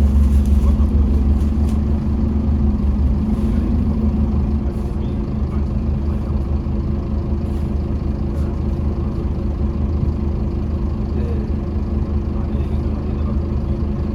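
Scania OmniCity double-decker bus's diesel engine running under way. The engine note is strongest at first and eases off a little after about five seconds, then runs on steadily.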